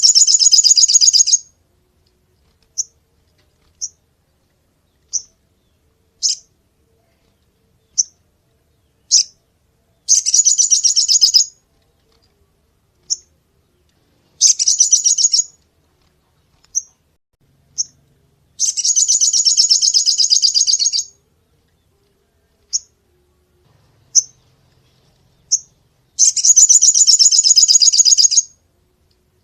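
Sogon songbird singing: sharp, high single chip notes every second or so, broken up by rapid buzzy trills lasting one to two and a half seconds, five of them, the longest about two seconds in the middle.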